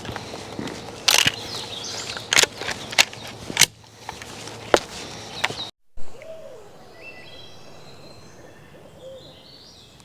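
Sharp clicks and knocks of hunting gear being handled, several in quick succession. After a cut about halfway through, quiet woods with a bird singing short, stepped whistled notes.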